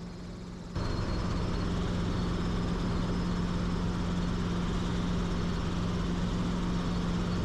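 Helicopter in cruise flight: a steady engine-and-rotor drone with a held hum and low pulsing, which jumps up in level a little under a second in.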